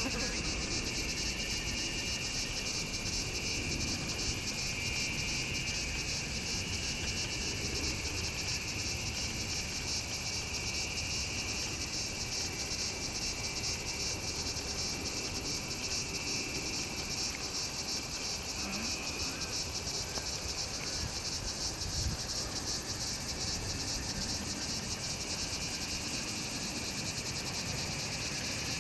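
Outdoor insect chorus: a steady, fast-pulsing high chirring from many insects, with a second, lower trill that swells and fades. A single soft low knock about three-quarters of the way through.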